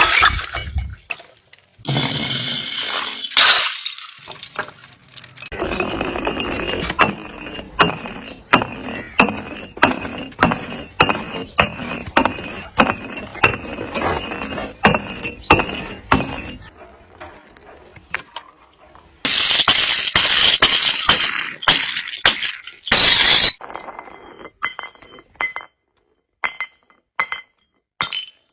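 Glass bottles being smashed: a run of sharp strikes, one or two a second, then a loud dense burst of shattering glass. Near the end come faint tinkling clinks of shards.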